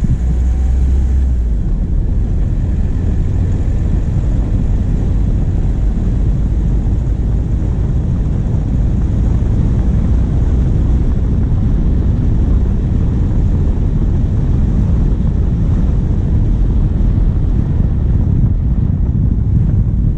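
Diesel engine of a vehicle running steadily on the move, heard from a bonnet-mounted camera as a deep, constant rumble mixed with wind buffeting the microphone.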